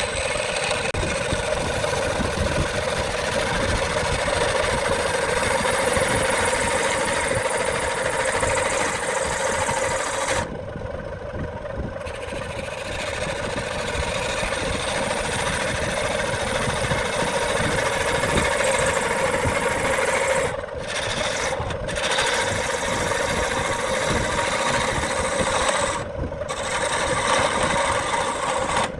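Wood lathe running steadily with a tool working the spinning wood-and-epoxy blank: a constant hum under a rough hiss that drops away briefly a few times.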